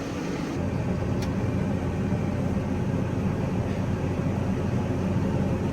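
Vehicle engine running steadily, a low hum that grows fuller about half a second in.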